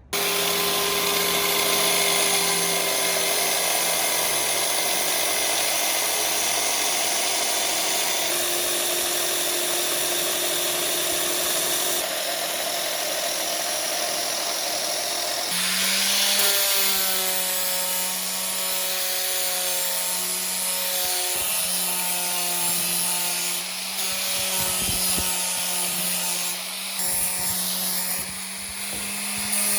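Electric power tool running steadily, a motor hum over a rough, rasping noise. About halfway through, the hum shifts and settles at a slightly different pitch.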